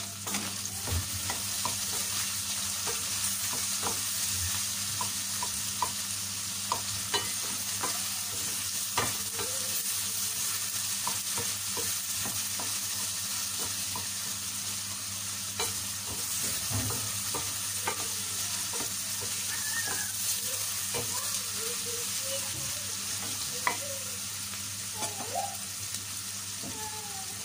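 Beef, tomato and carrot sizzling steadily in a stainless steel pan, stirred with a wooden spoon that scrapes and knocks against the pan again and again.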